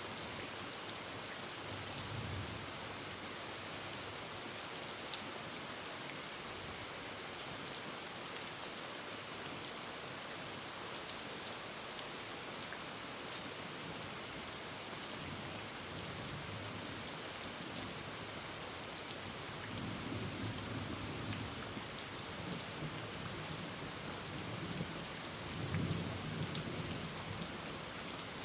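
Heavy rain falling steadily on a tin roof, with the sharp ticks of single drops, and low thunder rumbles that swell up a few times, the strongest near the end.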